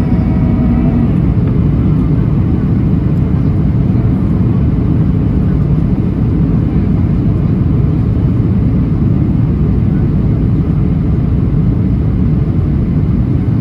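Cabin noise inside a Boeing 737NG on final approach: a steady, loud roar of airflow and CFM56 engines, with a humming engine tone that fades out about a second in.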